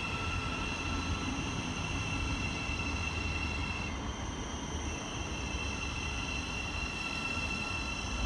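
Electric multiple-unit train moving slowly through the station: a steady whine from its electric traction equipment over a low rumble of wheels on rail. The whine briefly drops out about four seconds in.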